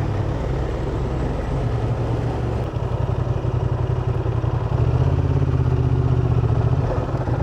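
125 cc single-cylinder motorcycle engine running while riding. Its note shifts about three seconds in and again about five seconds in, where it gets louder.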